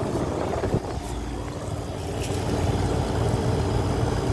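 Outdoor unit of a ductless mini-split air conditioner running, its fan blowing hot air with a steady hum and air rushing over the microphone. There is a brief knock just under a second in.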